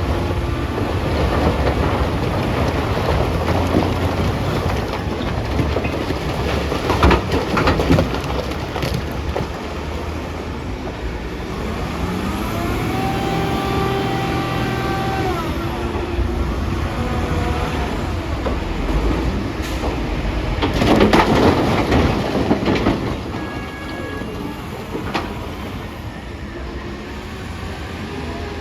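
Caterpillar 966D wheel loader's diesel engine running under load while loading rocks into a dump truck, with loud clattering crashes about seven seconds in and again around twenty-one seconds in as rocks drop. A pitched whine rises, holds and falls away in the middle.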